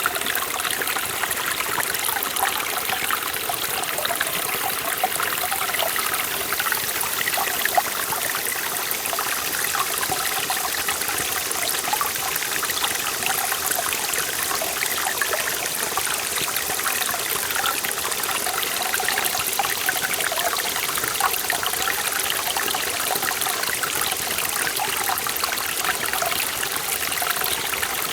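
Forest valley stream running over rocks, a steady rushing and trickling of water.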